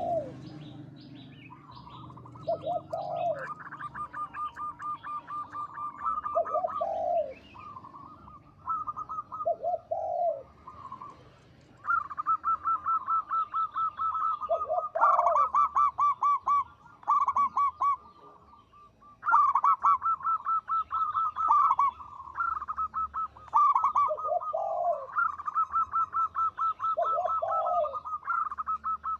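Zebra dove (perkutut) singing: long runs of rapid, clipped notes, broken every few seconds by a pair of lower, arched coos, phrase after phrase with short pauses between.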